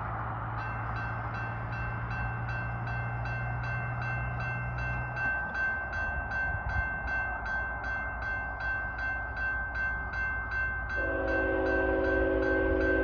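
Railroad grade-crossing warning bell starts ringing about half a second in, at roughly three strikes a second, over a low rumble. Near the end a locomotive's multi-chime air horn sounds, the loudest thing here.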